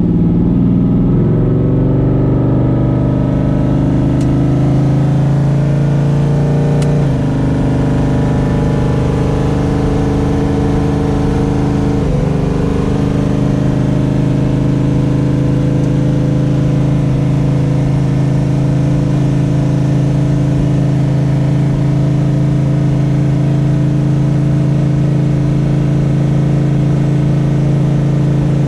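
Big-block Mopar 512 stroker V8 running steadily at idle, settling down from a higher speed in the first second or two, with small changes in its note about 7 and 12 seconds in.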